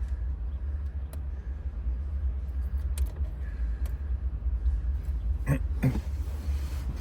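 Steady low rumble with a few faint clicks of a tool working the wafers of an automotive lock as its cut depths are read, and two short breaths near the end.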